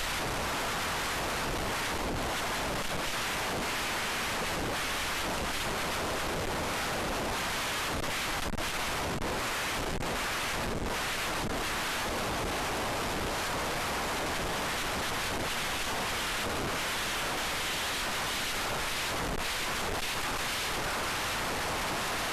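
Strong wind buffeting the microphone: a steady rushing hiss with no engine or motor tone standing out.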